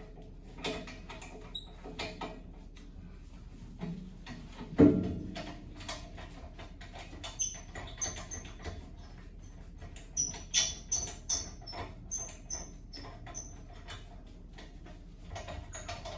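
Small metallic clicks and taps of a charging adapter being fitted to an SCBA air cylinder at a cascade fill station, with one heavier knock about five seconds in and a quick run of high, squeaky clicks around ten to twelve seconds in.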